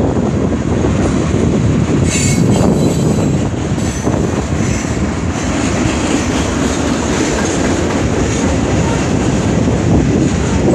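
CN freight train's cars rolling past steadily, with a brief high-pitched wheel squeal about two seconds in.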